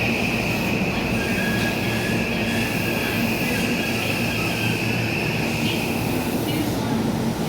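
JR Osaka Loop Line electric train moving along the platform, with a steady high-pitched wheel squeal over the low rumble of the cars.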